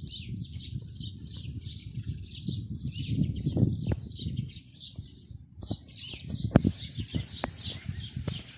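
Small birds chirping continuously in quick runs of short, high, downward-sliding notes, several a second. Underneath is a low, uneven rumble with a few sharp clicks.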